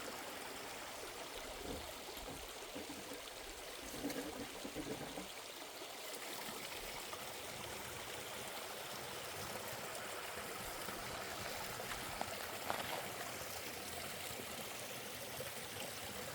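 Water running steadily, like a small stream trickling.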